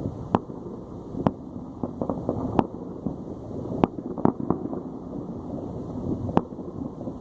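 Distant fireworks going off: about nine sharp, irregularly spaced pops and bangs over a steady low rumble.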